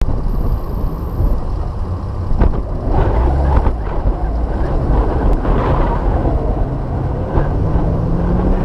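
Off-road 4x4 engine running with wind buffeting the microphone; the engine note rises near the end.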